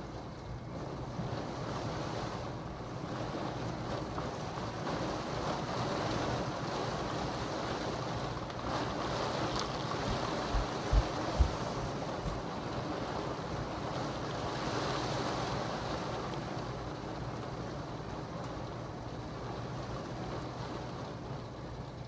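Steady rush of a thunderstorm's heavy rain and wind, swelling and easing slowly, with three short low thumps about halfway through.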